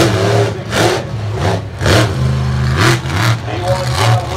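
Monster truck engine revving hard in repeated bursts, its pitch rising and falling.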